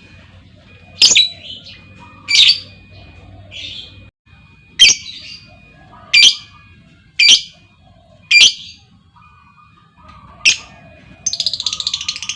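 Lovebird calling: sharp, shrill single chirps repeated about once a second, then near the end a fast rattling chatter.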